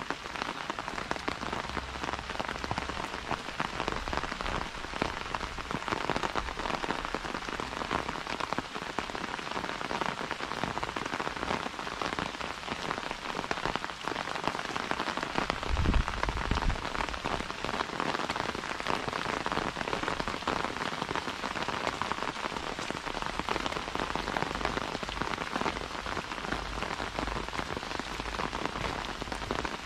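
Steady, even rain falling, with a brief low thump about halfway through.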